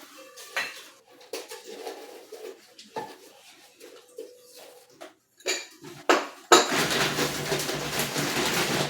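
Ceramic bowls clinking and knocking lightly together as they are handled, in scattered small taps. About two-thirds of the way through, a louder, steady noise starts and continues.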